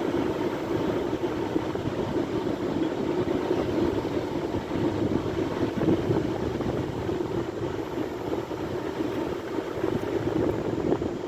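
Sea waves: a continuous rushing surf noise that swells slightly in level now and then.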